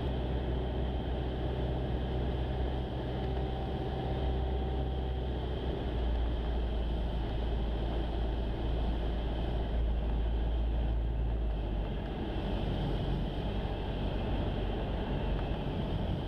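Steady drone of a Jabiru light aircraft's engine and propeller, with airflow noise, heard inside the cockpit on final approach.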